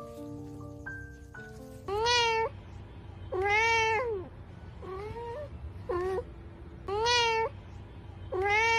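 A newborn kitten meowing loudly and repeatedly, six cries in a row, each rising and then falling in pitch, one of them short and one fainter; a kitten's cry for its mother. For the first two seconds a short xylophone-like mallet tune plays instead.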